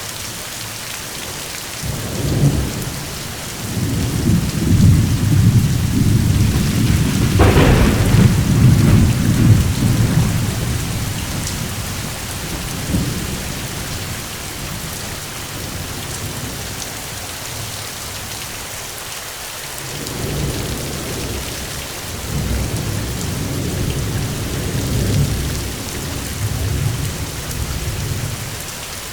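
Steady rain with rolling thunder: a long low rumble builds about two seconds in, with a sharp crack near the middle of it, then dies down. A second, weaker rumble comes in the last third.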